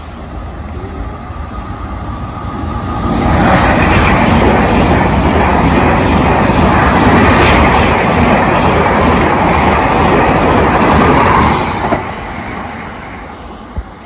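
Transilien electric multiple-unit train passing close by. Its noise builds over about three seconds, stays loud and steady for about eight seconds as the cars go past, then falls away.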